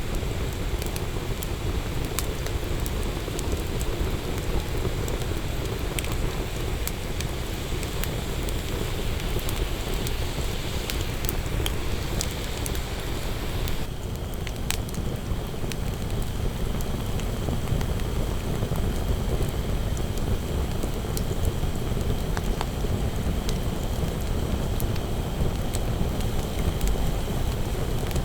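Wood campfire burning, with frequent sharp crackles and pops over a steady low rush.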